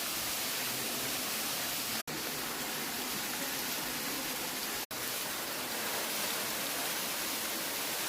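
Steady rushing hiss of a waterfall, interrupted twice by a brief dropout to silence.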